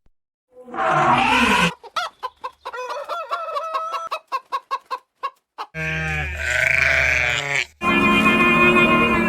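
Farm animal calls one after another: a short call, then a chicken clucking in a rapid run of short clucks for about four seconds, then longer drawn-out calls from about six seconds in.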